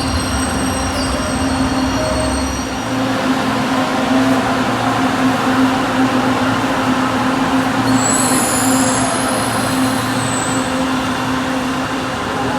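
LRT Line 2 electric train running on its track: a steady hum with motor whines and rail noise, loud and unbroken.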